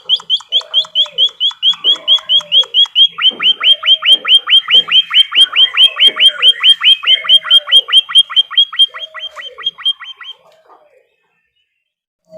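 Recorded birdsong of a master track for the white-headed munia (emprit kaji): a fast, even run of high chirps, about eight a second, over a lower falling call repeated about once a second. Both stop abruptly about ten seconds in.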